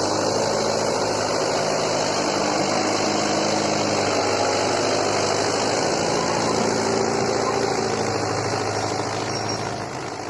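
Eicher 380 tractor's diesel engine running steadily, easing off slightly near the end.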